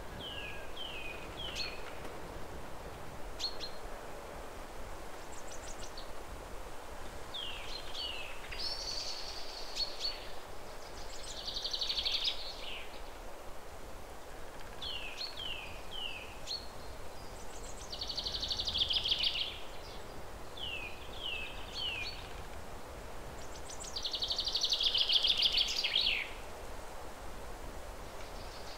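Songbird singing over a steady background hiss: short groups of three quick falling chirps alternate with longer buzzy trills, repeated again and again, the loudest trill near the end.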